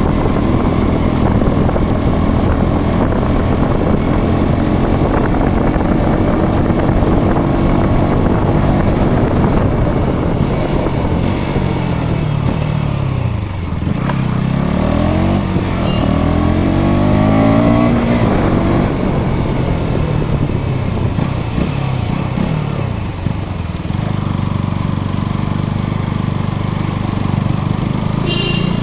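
Motorcycle engine running under way, with its pitch rising and falling through several changes about halfway through.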